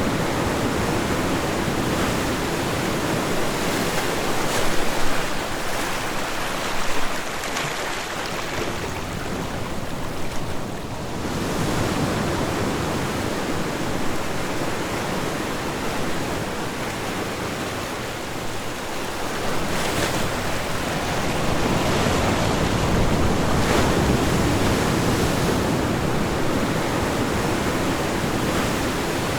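Ocean waves breaking on a shore in a continuous wash of surf that swells and eases.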